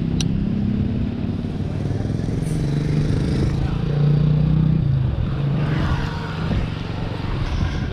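Royal Enfield 350 single-cylinder motorcycle engine running steadily while riding, its pitch shifting slightly, over road and wind noise.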